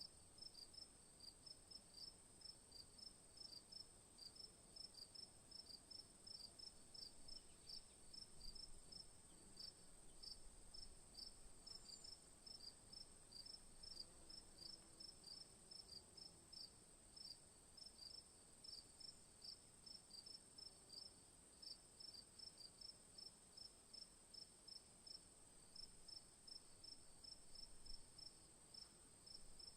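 Faint crickets chirping in an even rhythm, a little over two chirps a second, over a steady high-pitched insect trill.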